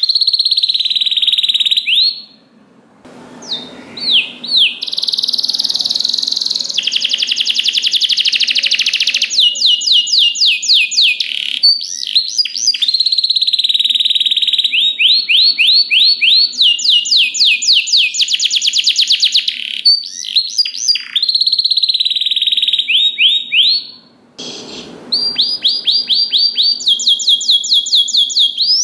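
Domestic canary singing a long song of fast rolling trills and runs of quickly repeated rising notes, with brief pauses about three seconds in and again near the end.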